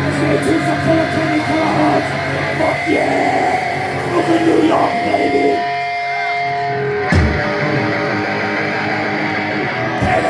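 Live rock band playing loud, with electric guitar, bass and drums. About five and a half seconds in, the low end drops away, leaving held guitar notes. A hard hit about seven seconds in brings the full band back.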